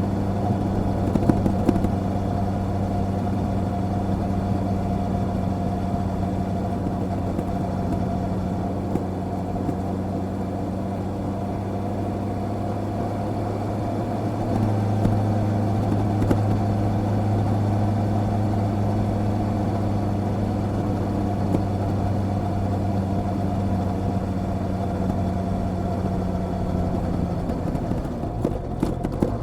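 Honda CB650R's inline-four engine running at a steady cruise on the move. Its note rises slightly and gets louder about halfway through, with a brief dip near the end.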